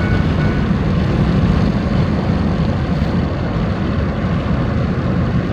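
Truck driving along a road, heard from inside the cab: a steady low engine and road rumble.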